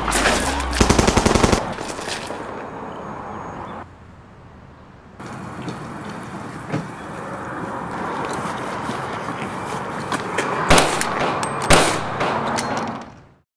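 Gunfire: a rapid burst of automatic fire in the first second and a half, then two single loud shots about a second apart near the end.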